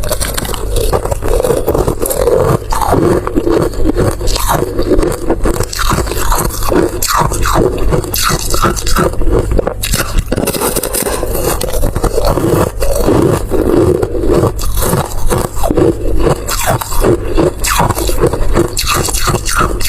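Close-miked eating: steady chewing and crunching with dense small crackles and scraping throughout.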